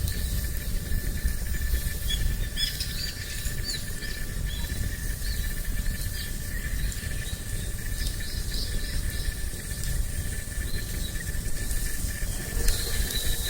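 Outdoor spring campsite ambience: small birds chirping in short scattered calls over a steady insect drone, with a low wind rumble on the microphone. Near the end a brief hiss joins in.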